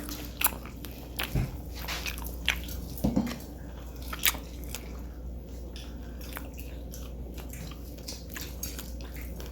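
Crispy fried chicken being bitten and chewed close to the microphone: scattered crisp crunches and clicks in the first few seconds, then quieter.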